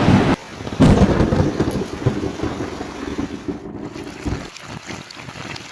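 Thunderstorm: steady rain with a sudden thunder clap about a second in that rumbles and fades.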